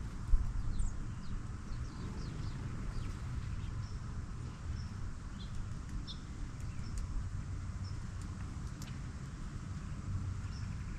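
Wild birds giving short high chirps and chips, scattered irregularly, over a steady low outdoor rumble. One sharp knock comes just after the start.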